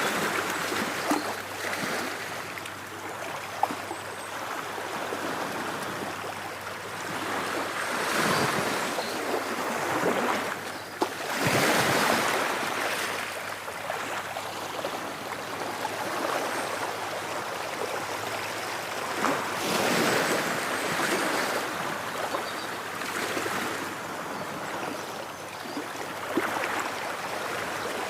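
Ocean waves breaking and washing on a shore, swelling and falling back every few seconds, with a few sharp clicks from the churning water.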